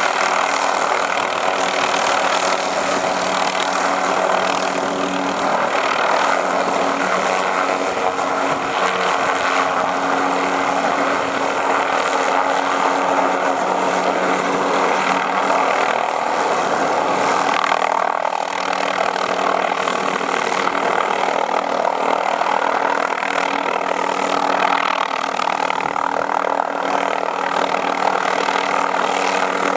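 Helicopter flying, with a steady, continuous drone of engine and rotor that shifts slightly in pitch about halfway through.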